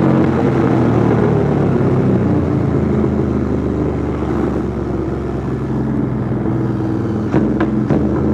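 Royal Enfield Interceptor 650 parallel-twin engine running at a steady pitch through a custom 2-into-1 exhaust, easing slightly in level partway through, with a few sharp clicks near the end.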